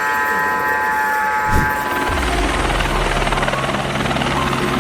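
Aircraft engine noise: a steady high whine that stops about two seconds in, giving way to a steady low rumble.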